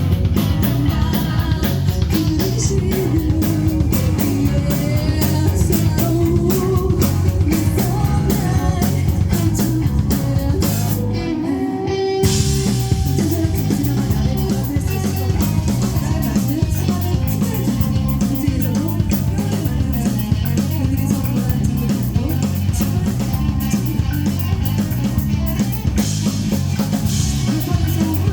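Rock band playing live, with electric guitar over a drum kit. The band briefly stops about eleven seconds in, then comes back in.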